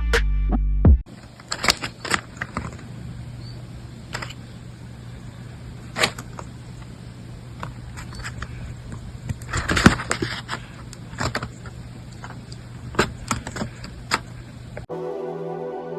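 Handling noises: scattered sharp clicks and a brief rustle over a steady low hum. Music cuts off about a second in and returns near the end.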